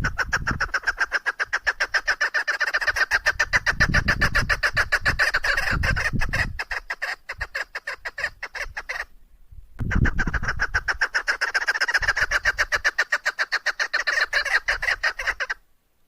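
Female chukar partridge calling: a fast, even run of short repeated notes, about seven a second, in two long bouts with a short break just past the middle.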